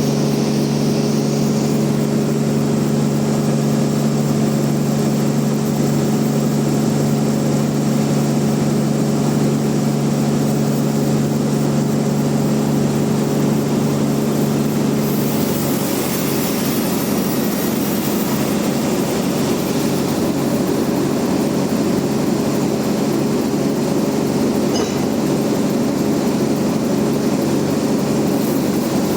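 Large log bandsaw mill running with a steady machine hum. About halfway through the hum turns rougher and a brief hiss comes in.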